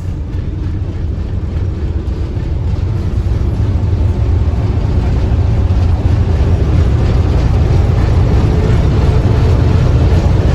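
Railway car rolling along the track, a steady low rumble that grows gradually louder.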